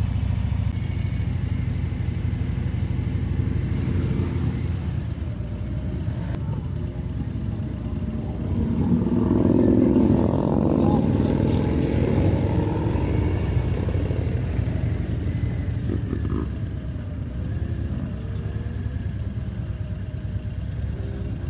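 Motorcycle engine running steadily at low speed. A louder swell of noise rises about nine seconds in and fades over the next few seconds.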